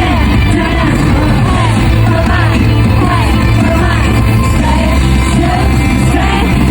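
Loud live K-pop concert music over the arena sound system, heavy steady bass, with singing and audience screams rising and falling above it.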